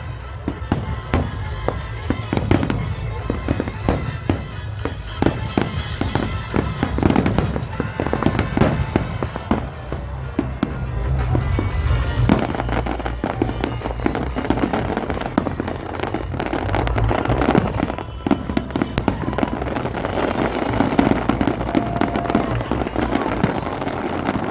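Aerial fireworks display: shells bursting in a rapid series of bangs and crackles, several reports a second, over a continuous low rumble.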